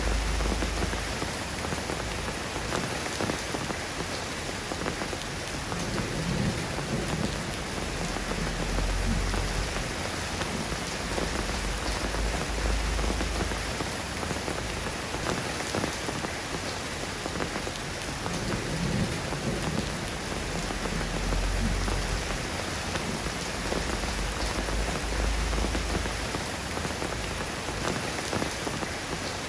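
Steady rain falling and pattering on surfaces, an even hiss with low rumbles swelling in and out every few seconds.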